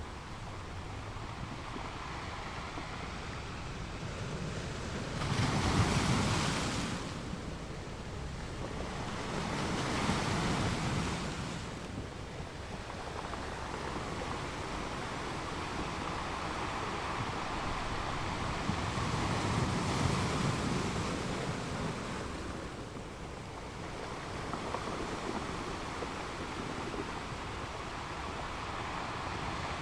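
Ocean waves breaking and washing up on a beach: a steady rush of surf that swells and ebbs every few seconds, the loudest wave about six seconds in.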